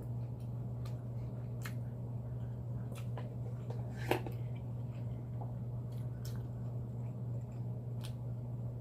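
Someone chewing food: scattered soft mouth clicks and smacks, one sharper click about four seconds in, over a steady low hum.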